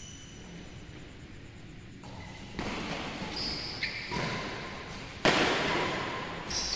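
Badminton play in an indoor sports hall: sharp hits, the loudest about five seconds in, and short high squeaks, echoing off the hall.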